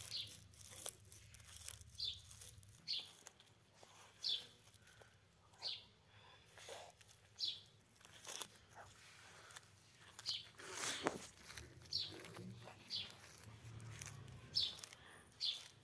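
A small bird chirping over and over, one short high chirp about every second. Under it are faint clicks and rustles of leaves as the tortoise bites and tears at them, with one louder crackle about eleven seconds in.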